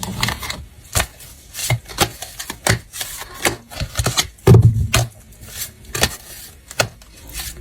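Tarot cards being handled on a table: a series of irregular sharp taps and light rubbing, with a couple of heavier knocks about halfway through.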